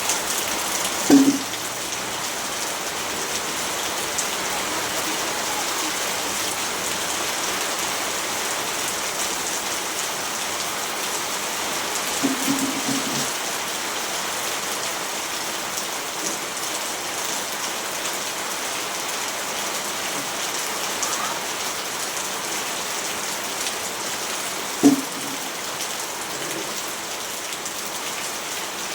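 Steady rainfall, an even hiss of drops on a surface, with three louder single drop-hits: about a second in, around twelve seconds, and near the end.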